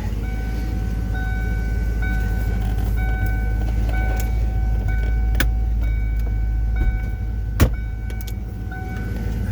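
1992 Lincoln Mark VII LSC's 5.0-litre V8 idling steadily after a cold start, with an electronic chime beeping on and off. A sharp click near the end, likely from the trunk.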